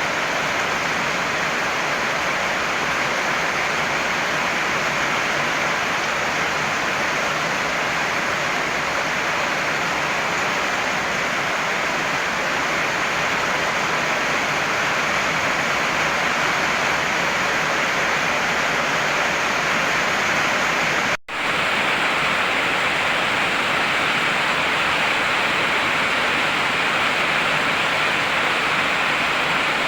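Heavy rain falling, a steady dense hiss with no letup, broken only by a momentary dip in the sound about two-thirds of the way through.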